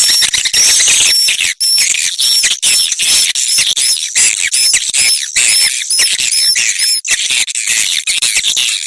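Swiftlet calls played as a lure track for swiftlet farming: dense high twittering with short repeated chirps, about two a second, which stop near the end.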